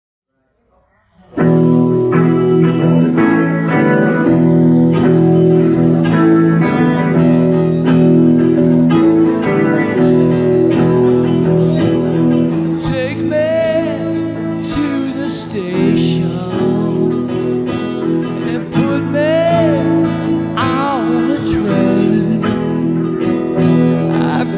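Live band music led by guitars, strummed and picked, starting abruptly just over a second in. From about halfway, a melody line bends and slides in pitch over the chords.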